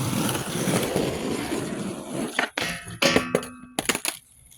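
Skateboard wheels rolling on concrete, then the board clattering down with a short metallic clang and brief ringing about three seconds in.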